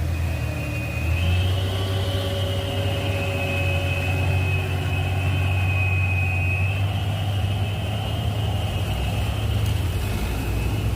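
Hino 500 truck's diesel engine running through a "knalpot cung" open-style exhaust: a steady deep rumble with a high whine held above it, rising slightly about a second in.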